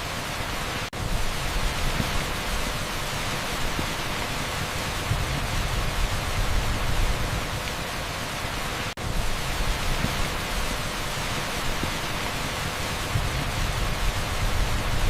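Torrential rain pouring onto an asphalt street, a dense, steady hiss with no separate drops standing out. It cuts out for a split second twice, about a second in and about nine seconds in.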